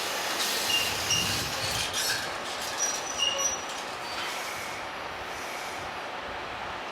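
Train running on rails, its wheels giving several short high squeals in the first few seconds before settling into a steady rushing run.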